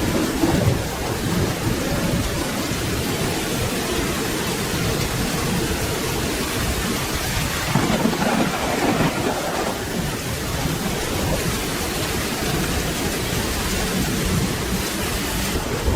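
Steady rain with low rolling thunder, the rumble swelling about half a second in and again around eight seconds in.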